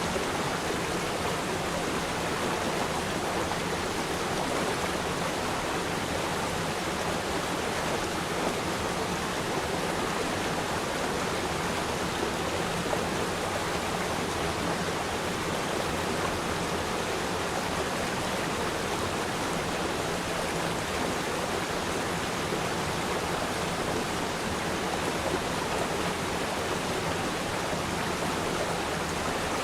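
River stream flowing over rocks: a steady, even rush of running water.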